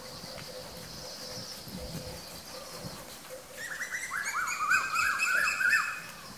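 Birds calling: a thin high whistle in the first couple of seconds, then a loud, fast run of rising-and-falling chirps from about three and a half seconds in, lasting about two seconds.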